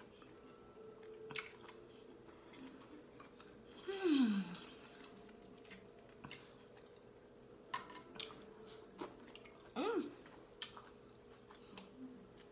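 A person chewing lobster tail meat close to the microphone, with scattered wet mouth clicks and smacks. A short falling hum comes about four seconds in and another hum near ten seconds.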